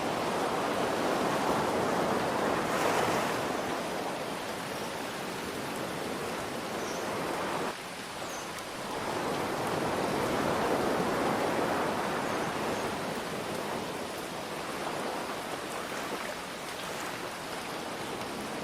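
Ocean surf washing in and out under a steady hiss of rain, swelling and easing slowly, with a sudden brief drop in level about eight seconds in.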